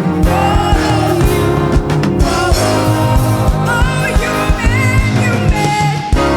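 Live gospel choir and band performing: sung voices over a steady drum beat and bass.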